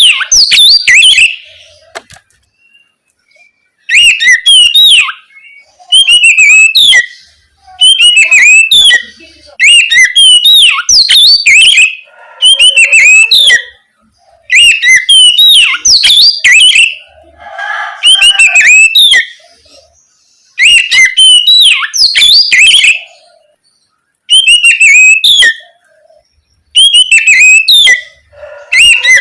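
Oriental magpie-robin singing loud bursts of rapid whistles and sweeping chirps. Each phrase lasts one to two seconds, and there are about a dozen of them with short pauses between.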